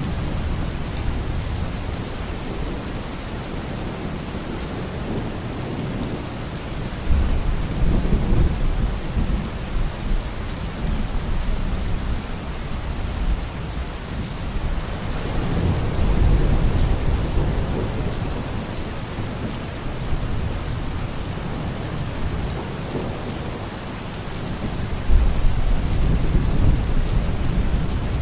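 Steady heavy rain with rolls of thunder, the low rumbles swelling up about a quarter of the way in, around the middle, and again near the end.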